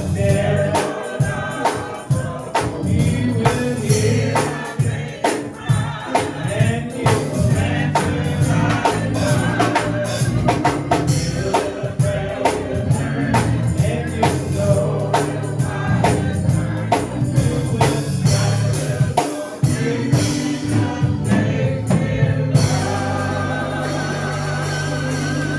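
Gospel hymn sung by a church choir and congregation over a steady beat, with tambourine. Near the end the singing and the beat stop, and a chord is held.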